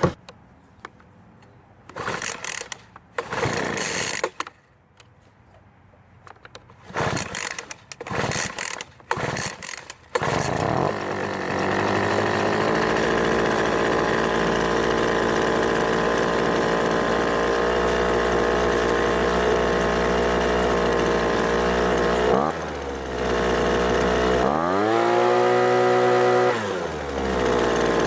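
Poulan Pro leaf blower's two-stroke engine: a few short noisy bursts, then it catches about ten seconds in and keeps running steadily on fresh two-cycle gas, the stale gas having been the cause of the no-start. Near the end it is revved up once and drops back.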